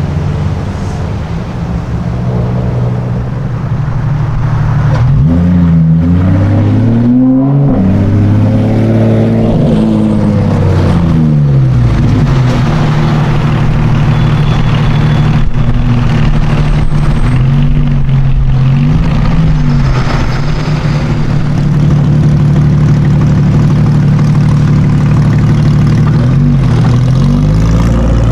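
Loud sports car engine running with a steady note, blipped several times so that its pitch rises and falls back in quick revs.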